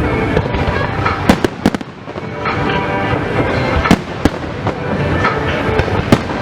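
Fireworks exploding: a quick run of three sharp bangs a little past a second in, then more single bangs about four and six seconds in, over a continuous rumble of bursting shells.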